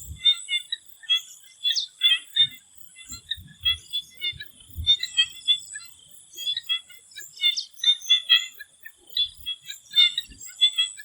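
Chorus of swamp frogs calling in quick clusters of short notes, overlapping throughout, over a steady high-pitched tone.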